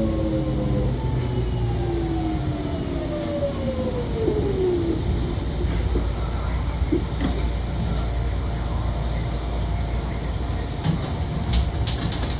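Hitachi GTO-VVVF inverter and traction motors of a Kintetsu 1031 series electric train, heard from on board: a whine of several tones falling in pitch over the first five seconds as the train slows, then a steady low running rumble with a few short clicks near the end.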